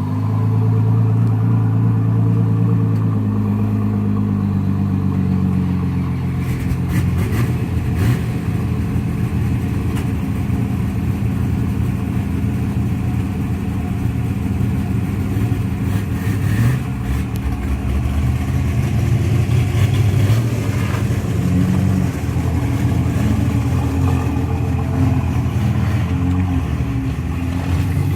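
Ford GT's twin-turbo V6 engine running at a steady idle, its pitch wavering a little from about six seconds in, with a few faint clicks.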